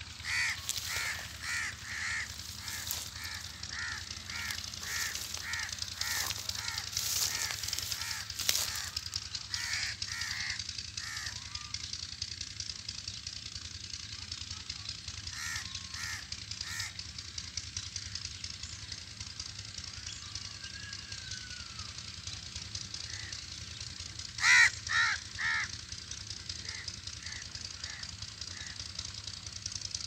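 A bird calling in runs of short, evenly spaced calls, about two a second, over a steady high hiss. The calls fall off about a third of the way through, return briefly, and a louder group of four comes a little over three-quarters of the way in.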